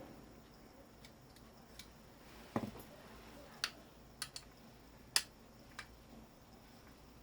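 Scattered sharp clicks and taps of small metal parts and hand tools being handled while taking apart a scrap motor. There are about seven, with a duller knock about two and a half seconds in.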